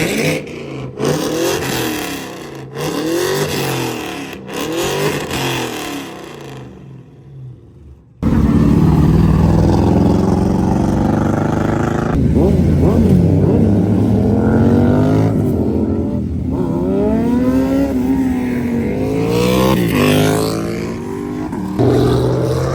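Car engines revving and accelerating, the pitch repeatedly rising and falling. An abrupt cut about 8 seconds in leads into a louder stretch of several engines revving at once.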